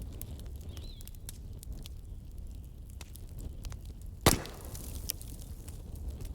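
Wood fire crackling: a steady low rumble of burning with scattered small ticks, and one loud, sharp pop a little past four seconds in.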